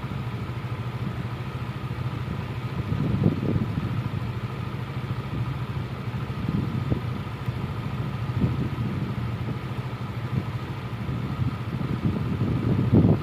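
An engine running steadily with a low hum, swelling briefly a few times.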